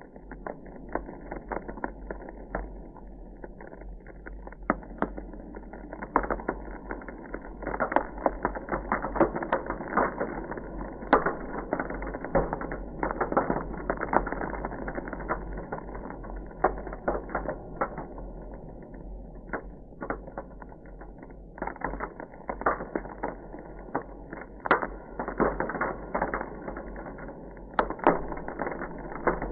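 Ice crackling: a dense, irregular stream of small cracks and pops, some sharper ones standing out here and there.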